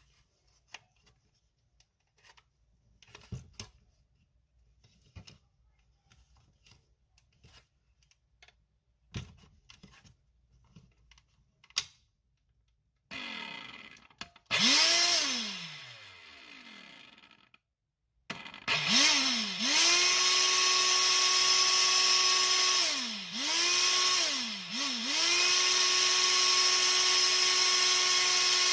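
Small clicks and knocks of handling for the first dozen seconds. Then the cordless stick vacuum's motor starts with a rising whine and winds down, starts again and runs with a steady whine. It dips in pitch twice, briefly, before picking back up.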